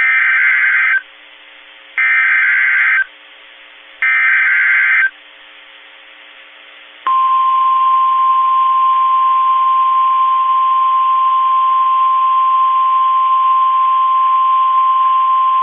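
NOAA Weather Radio emergency alert opening, heard over radio audio. The Specific Area Message Encoding (SAME) header sounds as three one-second bursts of buzzy digital data, a second apart. About two seconds after the third burst, the steady 1050 Hz warning alarm tone begins and holds, signalling that a warning follows.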